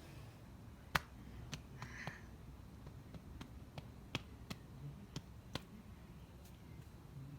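A series of small sharp clicks and snaps at irregular intervals, about a dozen in all, the loudest about a second in.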